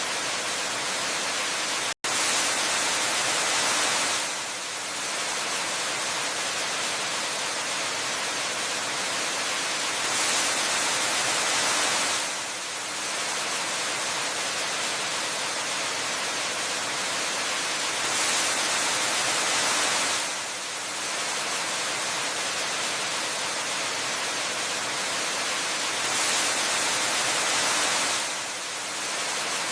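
Waterfall rushing as a dense, steady hiss, swelling louder and brighter about every eight seconds and easing back. It cuts out for an instant about two seconds in.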